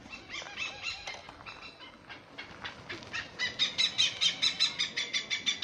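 Hornbill calling: a rapid run of short, sharp notes, about five a second, which gets louder about three seconds in.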